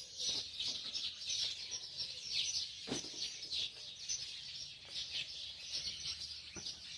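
A chorus of many small songbirds chirping and twittering over one another, with a sharp click about three seconds in and another near the end.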